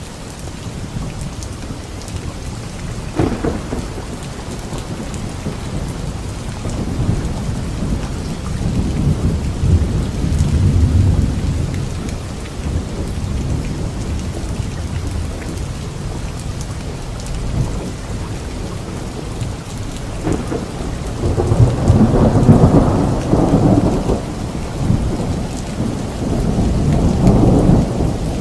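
Steady rain with rolling thunder: a short crack about three seconds in, then low rumbles that swell and fade, the loudest about two-thirds of the way through and another near the end.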